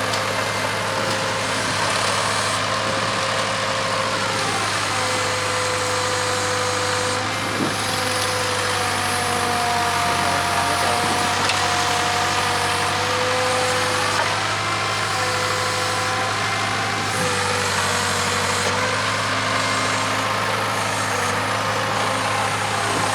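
Case 580K backhoe's diesel engine running steadily under load, with a whine that rises and falls over and over as the hydraulics are worked while digging; a single knock about a third of the way through.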